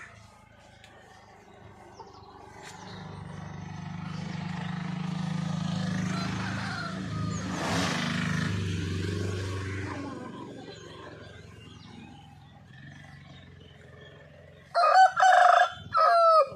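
A rooster crowing once near the end, a loud pitched call in three joined parts. Before it, a low hum swells up over several seconds and fades away.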